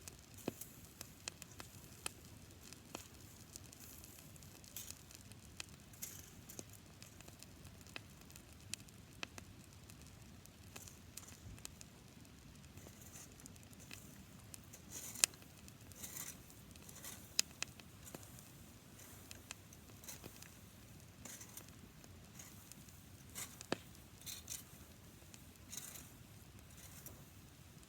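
Campfire of dry grass burning, with irregular small crackles and pops over a faint hiss.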